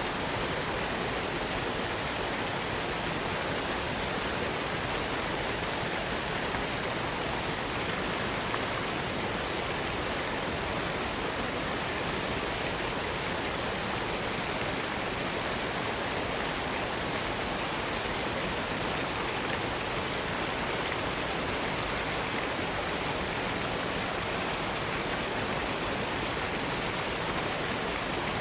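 Waterfall: water falling and rushing in a steady, unbroken roar of noise with no change in level.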